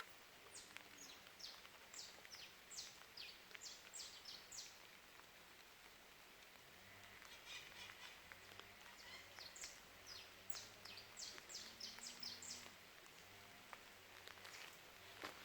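Faint bird chirping: short high notes repeating a few times a second in two bouts of several seconds each, with a faint low hum in the second half.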